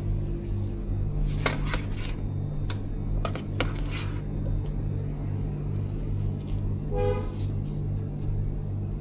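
Utensils and food containers clicking and clattering several times during food preparation, over a steady low hum and background music.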